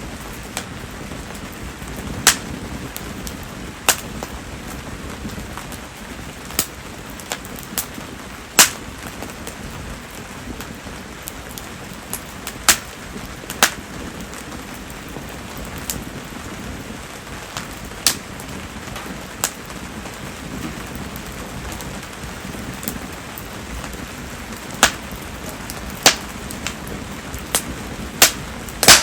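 Steady rain falling around a burning fire of mayumi (Japanese spindle tree) firewood, with sharp single clicks every second or two, one louder snap about a third of the way in and another near the end.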